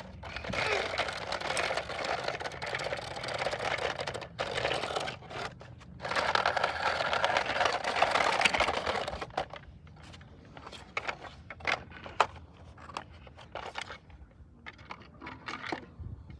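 Toy vehicles being pushed along a surface, giving a rattling scrape for several seconds with two short breaks, followed by scattered plastic clicks and knocks.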